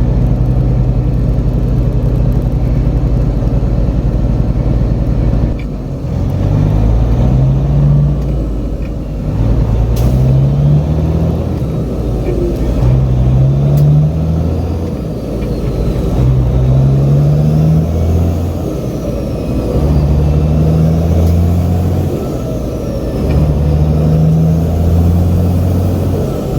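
Peterbilt semi truck's diesel engine running steadily, then pulling up through the gears. Its pitch climbs and drops back at each shift, repeating every few seconds.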